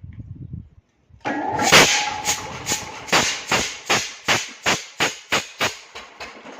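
Old G. Froussart engine starting up just over a second in, then running with strong, evenly spaced exhaust beats about three a second.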